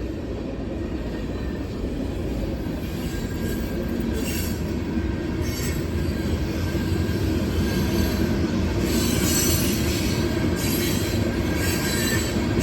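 Freight train rolling past close by, a steady heavy rumble growing gradually louder, with wheels squealing and hissing against the rails in repeated stretches.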